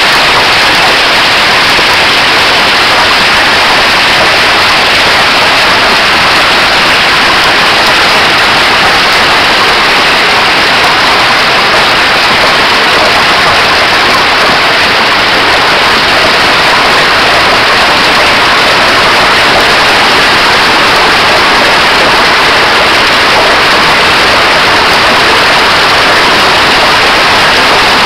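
Hail and heavy rain pelting down during a thunderstorm: a loud, dense, steady clatter of countless small impacts that does not let up.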